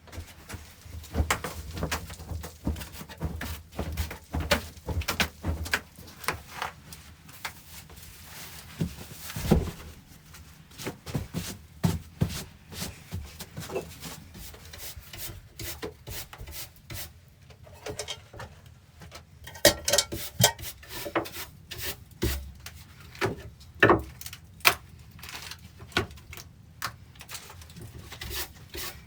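Irregular knocks, clicks and scraping, with a few sharper knocks standing out, typical of hands handling or working wood at close range.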